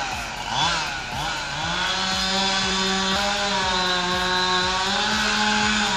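Two-stroke chainsaw blipped up and down a couple of times, then held at high revs, its pitch sagging slightly in the middle.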